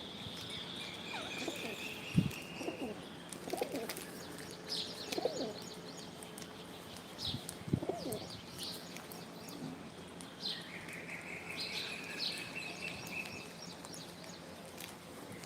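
Pigeon cooing, about five low rolling calls spread through the first eight seconds, mixed with short high chirps from other birds. A sharp thump about two seconds in is the loudest sound.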